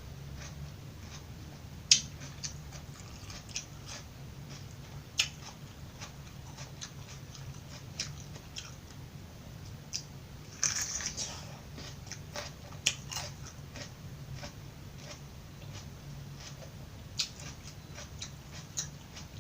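Close-up crunching and chewing of raw vegetables: sharp crisp bites every few seconds, with a longer run of crunching about eleven seconds in, over a steady low hum.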